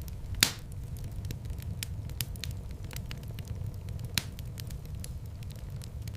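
Wood fire burning in a fireplace, crackling with many small sharp pops over a low steady rumble. Two louder pops stand out, one about half a second in and one about four seconds in.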